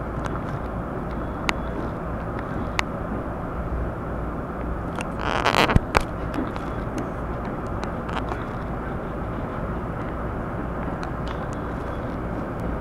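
Steady running noise of a railway train, with scattered sharp clicks and a short loud hiss ending in a knock a little over five seconds in.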